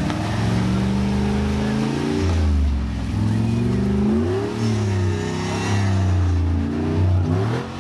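Jeep engine revving in repeated surges, rising and falling in pitch, under load while crawling up a boulder ledge.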